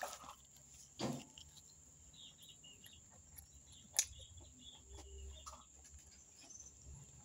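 A person eating with her hands: faint chewing and mouth sounds with a few sharp clicks, the loudest about four seconds in. Faint bird chirps in the background.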